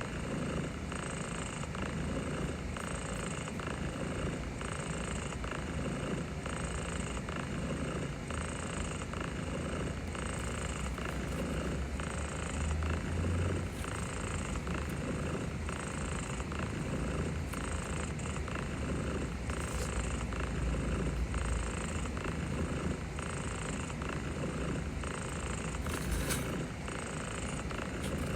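Domestic cat purring steadily, close to the microphone, with a faint rhythmic pulse to the purr.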